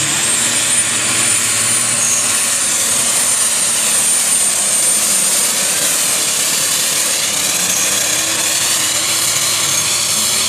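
Diesel pulling tractor or truck at full throttle during a pull, running loud and steady with a high whine held over the engine noise.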